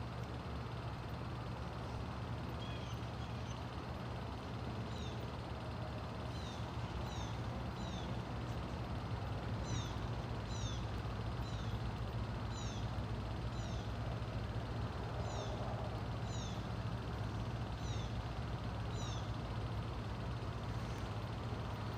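Steady hiss of rain with a low hum under it, and short high falling chirps repeating, often in pairs, from about five seconds in until near the end.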